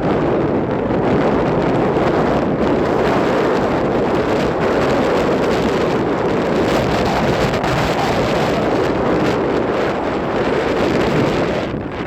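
Strong wind buffeting the microphone: a loud, steady rumbling roar that barely lets up.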